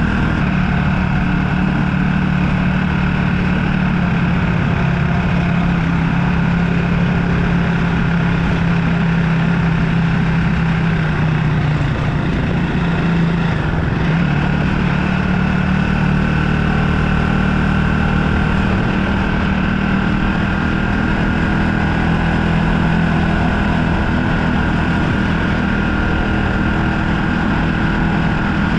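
Motorbike engine running steadily under way, a constant low drone that shifts slightly about halfway through.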